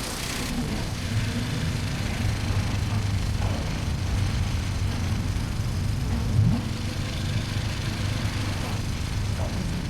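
Motorcycle engine running under way, with wind rushing over the chin-mounted helmet camera's microphone. There is a brief rise in engine pitch about six and a half seconds in.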